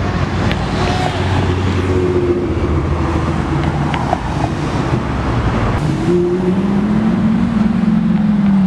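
Car engines rumbling at low speed, a steady low drone. Past the middle, one engine's note slowly rises and then falls away, as a car moves past.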